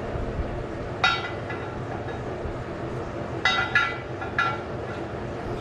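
Oxy-fuel cutting torch running with a steady hiss while trimming steel, broken by a few short ringing metallic clinks, one about a second in and three more between three and a half and four and a half seconds in.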